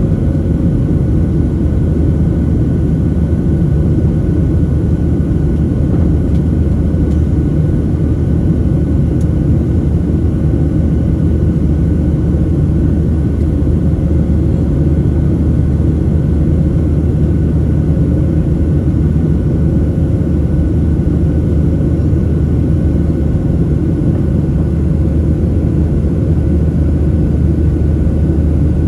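Steady cabin noise inside a Boeing 737-700 airliner in flight: a constant low rumble of the CFM56-7B engines and airflow, with faint steady hums above it.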